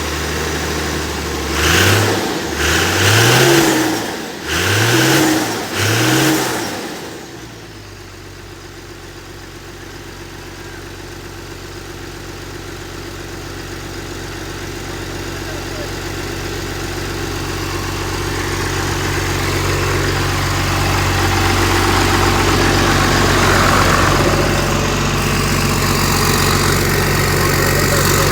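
Second-generation truck's 24-valve Cummins inline-six diesel running after sitting unused for a while: revved in four quick blips during the first seven seconds, then settling to a steady idle that grows gradually louder.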